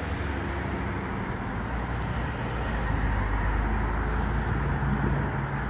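Road traffic running steadily, with a motor vehicle passing and the rumble swelling a little in the second half.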